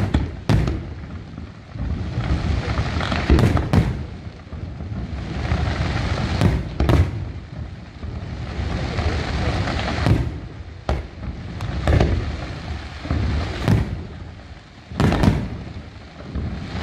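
Aerial fireworks display: shells bursting with sharp bangs every one to two seconds, some in quick pairs, over a continuous noisy rumble.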